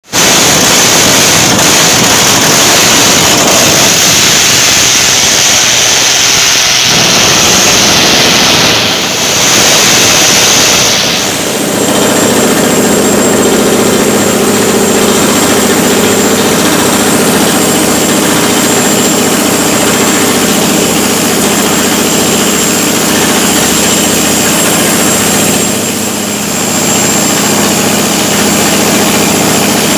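Heavy construction machinery running loudly in a tunnel: a harsh, steady hiss for the first eleven seconds or so, then a steady droning machine hum with a lighter hiss over it.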